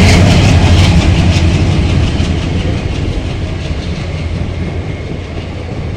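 An Indian Railways train running past and moving away: wheels clacking rapidly over rail joints at first, then a steady rumble that grows gradually quieter.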